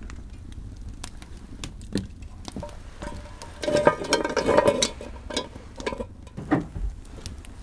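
Irregular clicks and knocks of objects being handled, with a denser scraping clatter for about a second near the middle.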